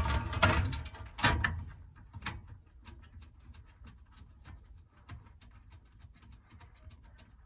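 Clattering and knocking of hard objects being handled, dense and loud for the first second and a half, then thinning to scattered light clicks.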